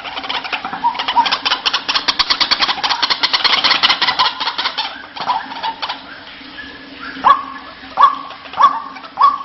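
White-breasted waterhen calling: a fast chattering run of rapid notes for about five seconds, then after a short lull, sharp calls repeated about every half second to second near the end.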